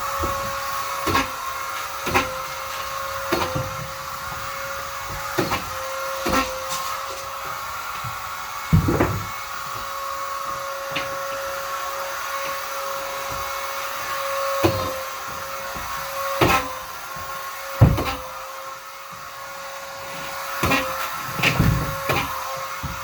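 Vacuum cleaner running with a steady motor whine, broken by irregular knocks and bumps every second or few, the loudest about nine seconds in and near 18 seconds.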